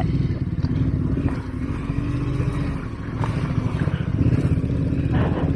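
Motorcycle engine running steadily while riding, with a few light clicks and clatters.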